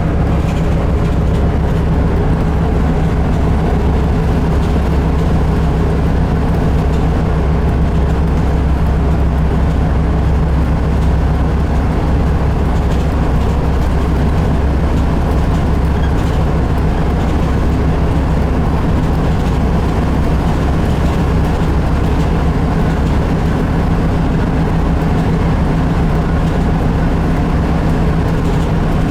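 Volvo B8RLE bus's diesel engine running at a steady, unchanging pitch, with road noise, as the bus drives along.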